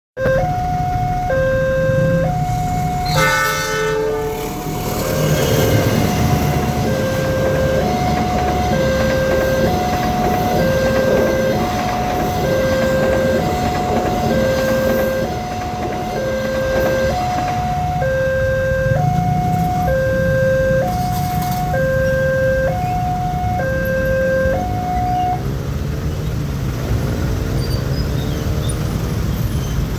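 Railway level-crossing warning alarm sounding a two-tone ding-dong, alternating high and low about once a second, which stops about 25 seconds in, over the low rumble of a passing train. A short train horn blast sounds about 3 seconds in.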